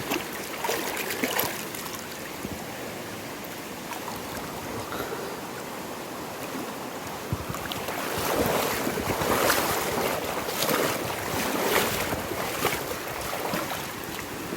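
River water rushing and splashing, with louder sloshing bursts from about eight seconds in.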